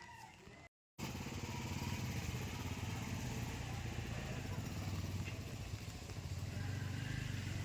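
A small petrol engine running steadily with a fast, even firing rhythm, starting about a second in.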